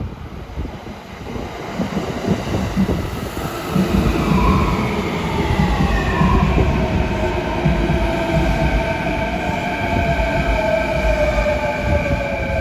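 Electric commuter train running through the station, its wheels rumbling and knocking over the rails while a whine of several tones slides steadily down in pitch from about four seconds in.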